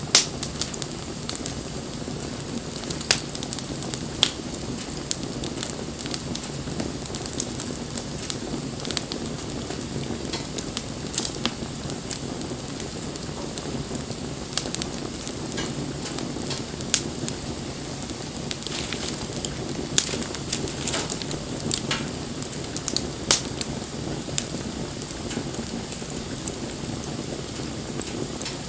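Wood bonfire burning: a steady low rushing with irregular sharp crackles and occasional louder pops.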